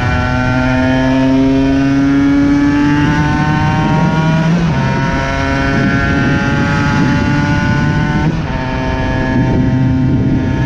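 Aprilia RS 125 single-cylinder engine pulling under way. Its note climbs slowly and is broken twice by gear changes, about four and a half and eight seconds in.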